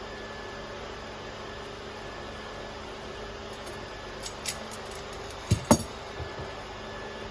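A few hard clinks and clacks over a steady hiss, the two loudest coming close together about five and a half seconds in: hard parts or tools being handled and set down during faucet and drain trap work.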